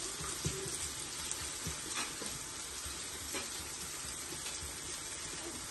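Food frying in oil in a pan, with a steady sizzle and a few clicks of a utensil stirring it.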